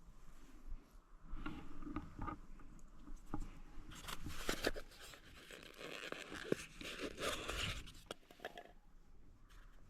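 Rustling and scraping handling noise with scattered sharp clicks, busiest from about four to eight seconds in.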